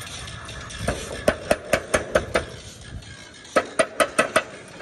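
Hammer blows in two quick runs, six strikes then five, at about five a second, each with a short ring.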